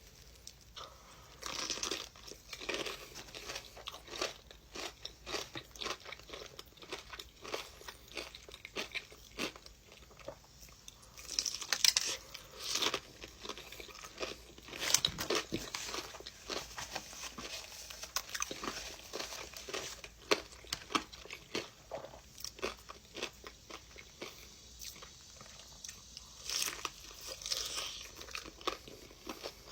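Close-miked eating of crunchy food: crisp bites and crunchy chewing in irregular crackles, with louder bites about twelve and fifteen seconds in.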